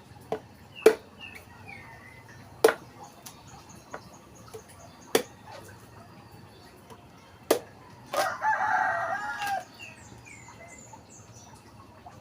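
A rooster crows once, for about a second and a half, a little past the middle. Before it come five sharp knocks a second or two apart, and small birds chirp faintly throughout.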